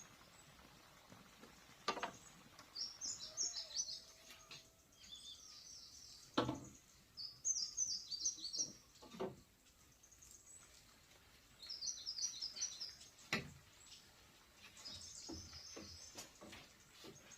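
A bird chirping in short runs of quick high notes every few seconds, with a few sharp knocks or taps in between, the loudest about six seconds in.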